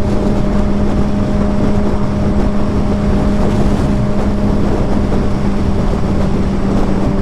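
2006 Honda CBR600RR's inline-four engine with a Yoshimura exhaust, running at a steady, unchanging pitch while the bike cruises.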